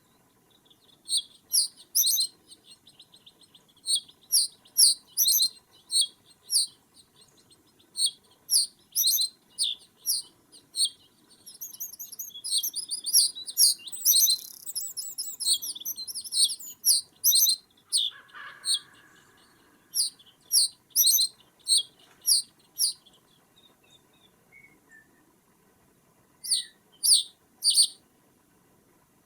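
Small bird giving sharp, high calls over and over, about one or two a second, with a denser run of twittering in the middle. The calls stop for a few seconds near the end, then three or four more come.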